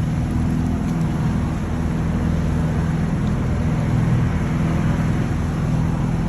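Motorboat engine running steadily under way, a low even hum over a constant rushing noise.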